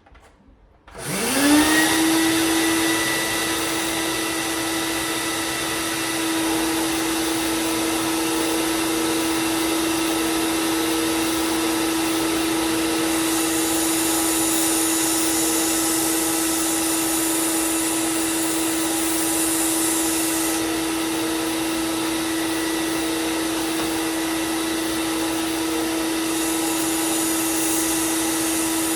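Belt grinder and dust-collection system spinning up with a rising whine about a second in, then running at a steady pitch with a rushing suction. Twice a harsher high hiss rises over the running machines, from about 13 to 20 seconds and again from about 26 seconds: the knife blade being ground on the belt.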